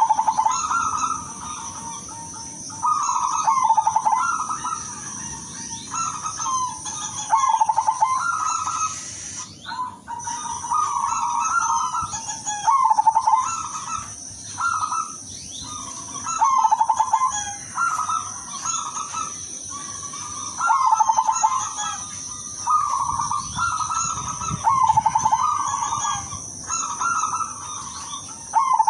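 Zebra dove (perkutut, silver colour variety) cooing, repeating short trilled song phrases every second or two, with a steady high-pitched tone behind.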